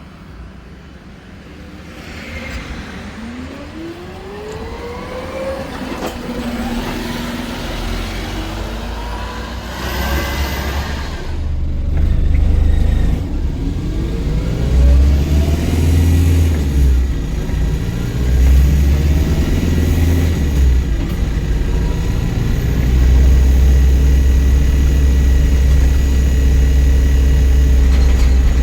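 Volvo B5LH hybrid double-decker bus pulling away and accelerating hard: rising electric-drive whines at first, then the four-cylinder diesel cutting in and revving hard with a heavy rumble, louder as it goes. Near the end the whine of regenerative braking is heard.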